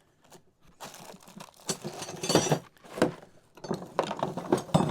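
A hand tire tool working a tractor tyre onto its rim: irregular metal clanks, scrapes and ratchet-like clicks in a string of uneven bursts.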